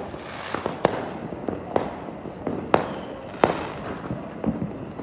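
Fireworks going off: sharp bangs of differing loudness roughly every second, with fainter pops and a continuous crackle between them.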